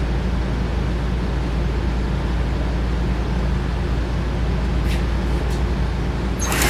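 Small electric motors on an HO-scale model layout running with a steady low hum. A louder whirring rattle comes in near the end.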